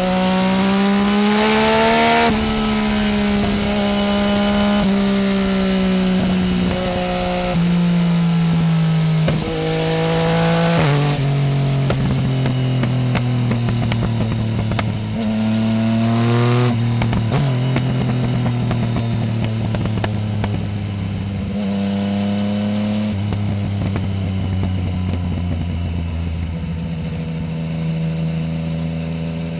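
Yamaha Tracer 900 GT's three-cylinder engine through a full aftermarket Roads Italia exhaust, ridden on the road. Its pitch climbs over the first two seconds, then drops and climbs again several times as the throttle is opened and closed. It settles to a lower, steadier run over the last several seconds.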